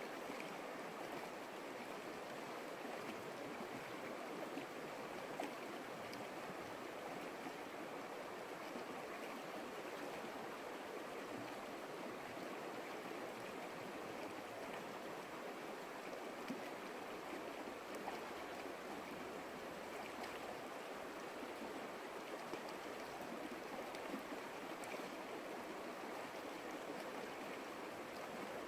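Stream water flowing with a steady, even rushing, with a few faint splashes now and then.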